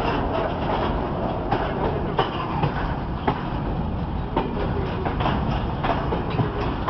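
Goods train running along the track, heard from its caboose: a steady low rumble broken by irregular sharp knocks, about one a second.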